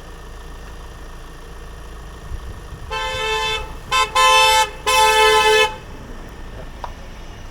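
Car horn honking four times: a medium blast, a quick short toot, then two longer loud blasts, over the low rumble of passing traffic.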